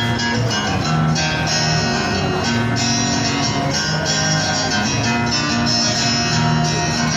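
Live acoustic rock band in an instrumental break: strummed guitar chords with bass over a steady rhythm, no vocals.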